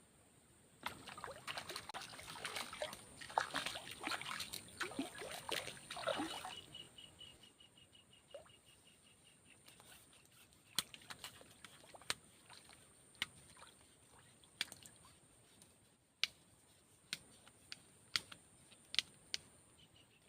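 A hooked fish, a climbing perch, splashing and thrashing at the water surface for about five seconds, then a scattering of sharp clicks and taps.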